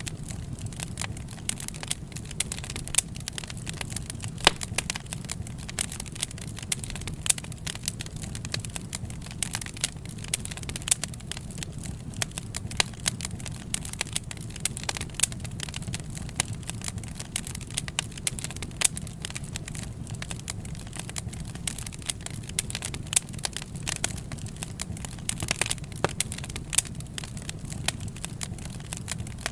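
Wood fire burning, crackling and popping irregularly over a steady low rumble of the flames.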